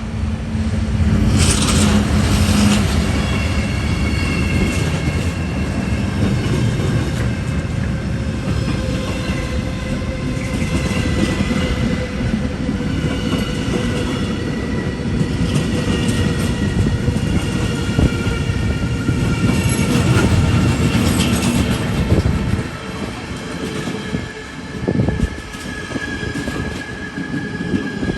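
Train running through a station on steel rails, a heavy rumble with high, steady wheel squeal over it. The rumble eases about three-quarters of the way through, leaving quieter, uneven rail noise.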